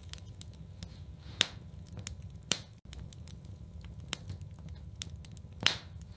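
Wood fire crackling in a fireplace: scattered sharp pops and snaps over a steady low rumble, with louder pops about a second and a half in, about two and a half seconds in, and near the end.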